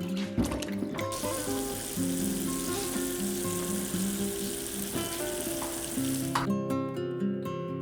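A steady hiss, starting about a second in and cutting off sharply near the end, over soft background music.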